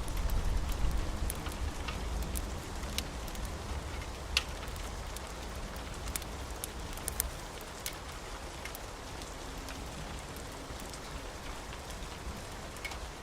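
Steady rain with a low thunder rumble dying away over the first few seconds. Scattered sharp crackles from a wood fire come through the rain.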